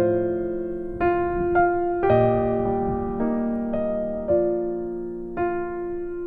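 Calm background music played on a soft piano: slow, sustained notes struck about once a second and left to ring.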